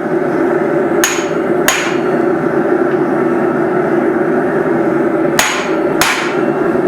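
Four hand-hammer blows on hot steel at the anvil, in two pairs a little over half a second apart, each with a short bright ring, over a steady loud background noise.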